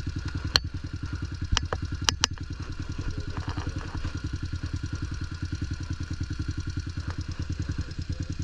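Pit bike engine idling with an even, rapid putter. A few sharp clicks sound in the first couple of seconds.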